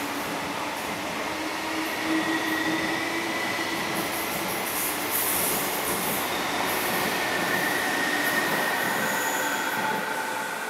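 Electric multiple-unit commuter train running past along the platform, a steady rolling rumble with thin wheel squeal, echoing under the station roof. The sound starts to fade near the end as the last car goes by.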